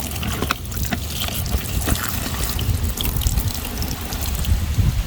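Water trickling and splashing while muddy toy vehicles are rinsed, with scattered small clicks and knocks.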